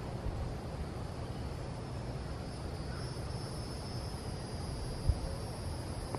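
Insects chirring in a steady high-pitched drone over a low rumble, with a single short thump about five seconds in.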